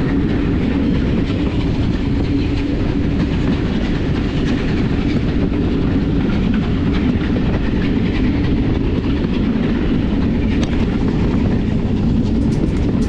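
Steam-hauled heritage train running along the track: a steady rumble of wheels on rails, with a few sharp clicks near the end.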